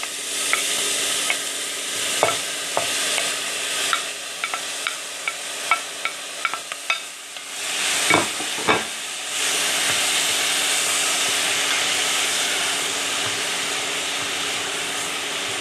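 Chopped tomatoes sizzling in hot oil with onions in an enamelled pot, stirred with a wooden spoon that clicks and knocks against the pot many times. Two louder knocks come about eight seconds in, then steady sizzling.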